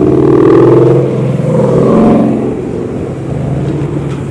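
A car engine revving, rising and falling twice over a steady low engine drone, once near the start and again about two seconds in.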